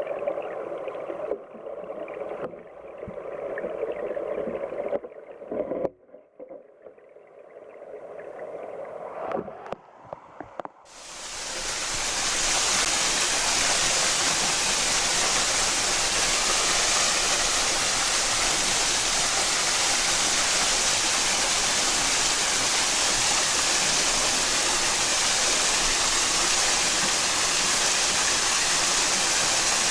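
Mountain stream water heard first from underwater: a muffled, dull gurgle with no high end, falling quiet for a few seconds around six seconds in. About eleven seconds in the microphone comes out of the water and the stream's bright, steady rush takes over.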